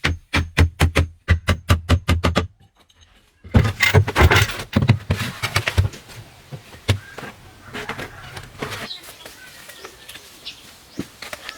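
Rapid, evenly spaced knocks, about four a second, that stop about two and a half seconds in. After a short pause comes a denser cluster of knocks and rustling, then scattered quieter clicks and taps.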